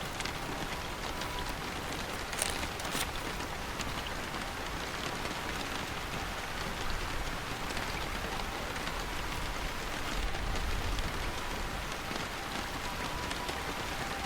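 Steady rain falling, with two brief sharp sounds about two and a half and three seconds in.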